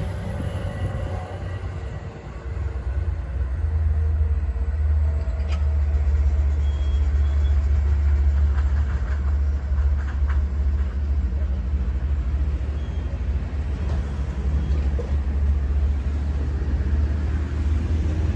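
Long Island Rail Road diesel passenger train, hauled by DM30AC locomotives, running past with a steady, heavy low rumble that strengthens about three seconds in and then holds.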